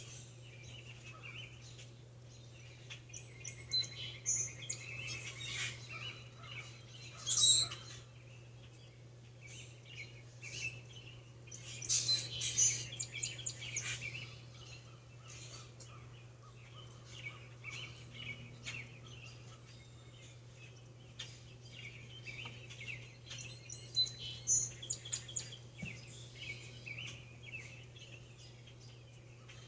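Birds chirping and trilling in short bouts, several flurries with pauses between, over a steady low hum.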